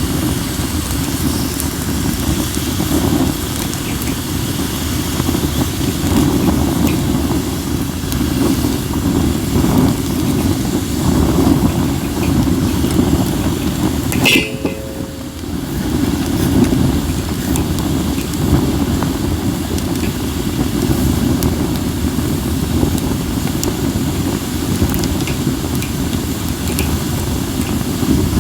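Wind rumbling on the microphone with a steady low roar, over a wood fire of acacia and mixed firewood crackling faintly with scattered small pops. The wind eases briefly about halfway through.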